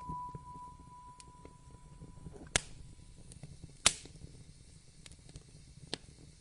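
Wood fire crackling in a fireplace: a low steady rumble with sparse small crackles and two sharp pops, about two and a half and four seconds in. A ringing bell-like tone dies away over the first couple of seconds.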